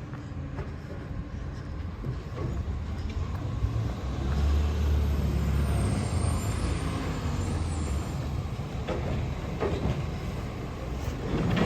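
Garbage truck engine running with a low rumble that grows louder for a couple of seconds about four seconds in, with scattered knocks and clatter.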